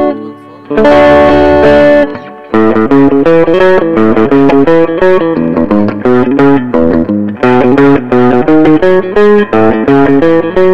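Electric guitar played through a Mesa Boogie Recto-Verb 25 tube combo with EL84 power tubes, treble turned fully up. A sustained chord rings about a second in, then quick picked single notes follow at about four to five a second, each pick stroke crisp with the strong attack this amp is known for.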